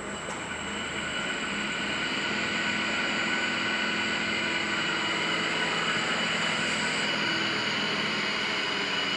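A Mercedes Vito driveshaft spinning on a driveshaft balancing machine: the machine runs the shaft up to speed over the first few seconds, then holds a steady whir with a high whine during a test run that finds where balance weights are needed.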